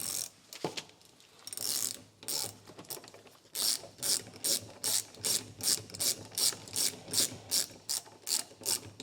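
Hand ratchet wrench clicking as it tightens the bolts joining the brake caliper halves: a few uneven strokes at first, then a steady back-and-forth of about two to three strokes a second.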